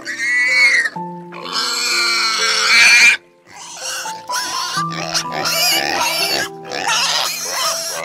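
Pigs squealing in long, high, harsh cries over background music.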